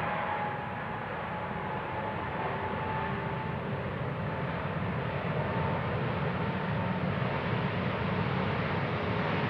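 The GE90 turbofans of a KLM Boeing 777-200ER at departure power: a steady, heavy jet rumble with a thin high whine on top, growing slightly louder toward the end.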